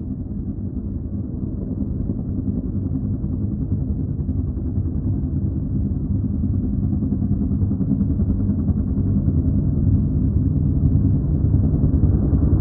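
Helicopters flying low overhead: a steady low rotor and engine rumble that grows steadily louder as they approach.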